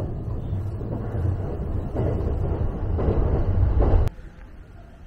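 Running noise inside a passenger car of a moving JR East E261-series Saphir Odoriko express train: a steady low rumble that swells a little and cuts off abruptly with a click about four seconds in.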